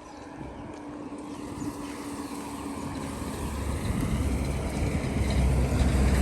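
A motor vehicle's engine running and growing steadily louder, its low rumble building strongly in the second half.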